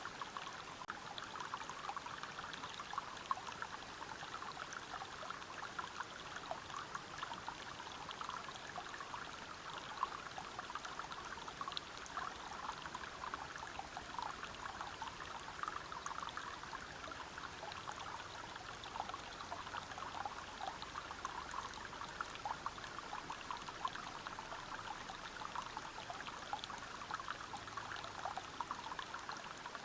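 Water running steadily over rocks in a river or small waterfall, a continuous splashing and trickling with many small drips and plops.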